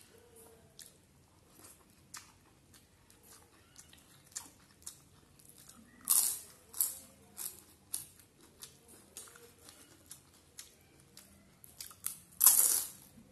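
Close-up eating sounds: quiet wet chewing and small mouth clicks throughout, with loud crisp crunching bites about six seconds in and the loudest crunch near the end.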